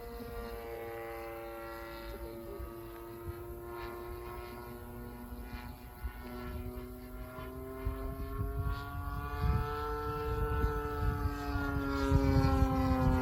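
DLE 30 single-cylinder two-stroke petrol engine of a radio-controlled Seagull Models Ultimate running in flight. Its drone slowly rises and falls in pitch, and a low rumble grows louder near the end.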